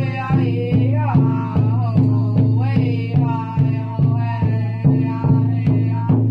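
Powwow-style big drum struck in a steady beat, about two and a half strikes a second, with voices singing over it.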